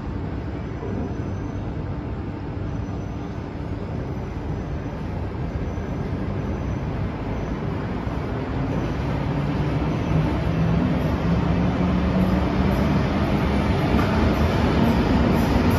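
SBB double-deck train rolling in along the platform, its rumble growing louder as it nears and passes, with a low hum joining about halfway and rising slightly in pitch.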